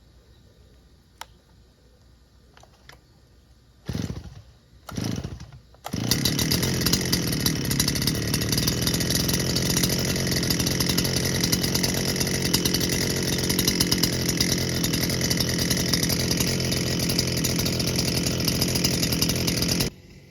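Stihl FS250 two-stroke brush cutter being started: two short bursts about four and five seconds in, then the engine catches and runs steadily. The sound cuts off abruptly near the end.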